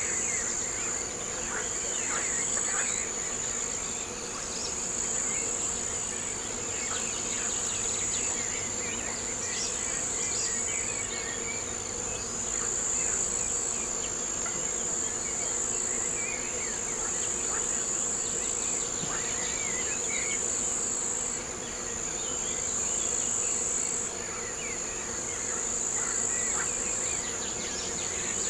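A chorus of insects trilling: a steady, high-pitched, continuous drone with a faint pulsing shimmer above it, and scattered faint short chirps underneath.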